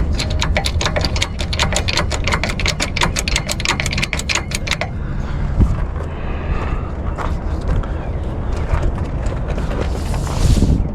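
A ratchet clicking rapidly and evenly, about six clicks a second, for about five seconds, then scattered clicks and knocks over a steady low rumble.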